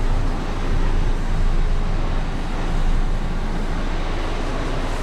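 A steady low mechanical hum over a continuous rumbling noise, with no distinct strokes or changes.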